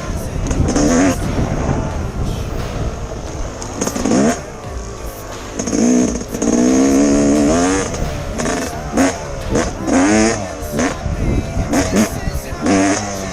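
Yamaha YZ250X two-stroke dirt bike engine revving hard in repeated bursts, the throttle opening and closing over and over, with one longer pull about six seconds in. Steady wind rumble on the microphone underneath.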